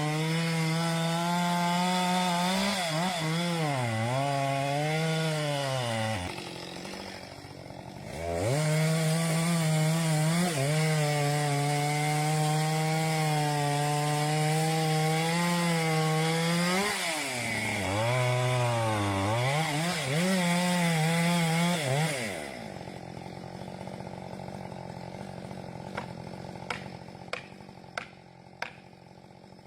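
Chainsaw running at high revs while cutting into a tree trunk, its pitch sagging as the chain bites into the wood and rising again. It drops off for about two seconds around six seconds in, revs back up, and stops a little past two-thirds of the way through. A few sharp knocks follow near the end.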